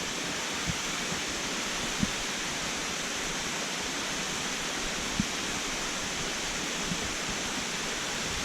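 Waterfall rushing in a steady, even roar of falling water, with a few soft low thumps.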